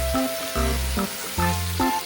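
Background music with a bouncing bass line, over the steady sizzle of food frying in a pan.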